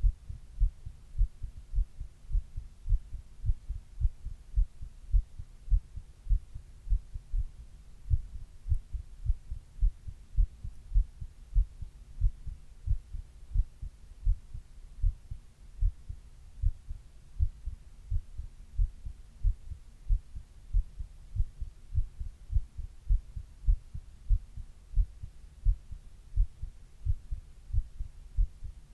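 A person's own heartbeat, heard close up as a steady rhythm of short, low thuds.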